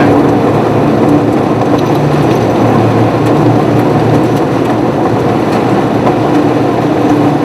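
Steady road and engine noise inside a moving car: tyres on the road and the engine's low hum.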